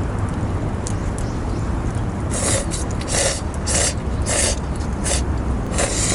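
A person slurping noodles, about six short slurps in the second half.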